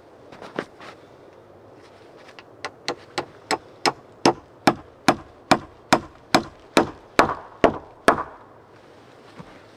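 A hammer striking wood in a steady run of about fourteen sharp blows, roughly two or three a second, growing louder as they go. A few lighter taps come before.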